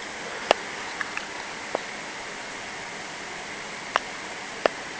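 Steady background hiss with a handful of short, sharp clicks and taps scattered through it.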